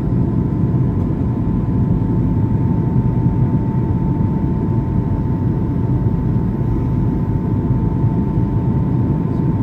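EgyptAir airliner's engines and airflow, a steady low rumble with a thin, steady whine above it.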